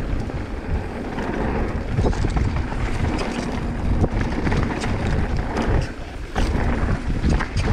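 Wind buffeting the microphone of a mountain bike's action camera, over the rumble of tyres on the trail and the bike's frequent rattles and clicks during a fast descent, with a brief lull about six seconds in.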